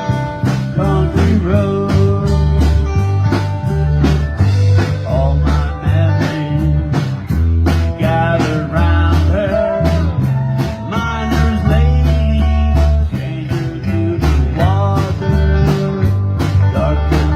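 Band playing an instrumental passage: a lead guitar with bent notes over bass and a steady drum beat.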